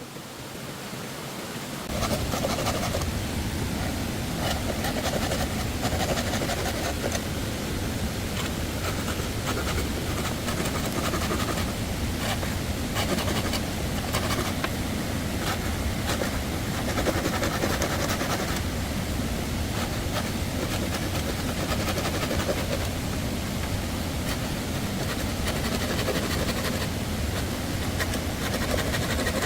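Steady rushing of running stream water, starting suddenly about two seconds in, with a few faint knocks over it.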